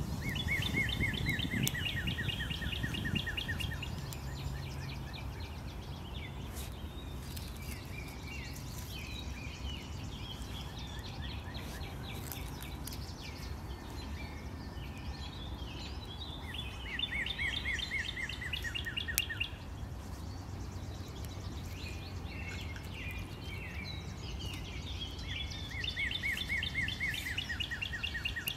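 A songbird singing a rapid trill of many quick repeated notes, each trill lasting about three seconds and heard three times, with shorter chirps between, over a steady low outdoor background noise.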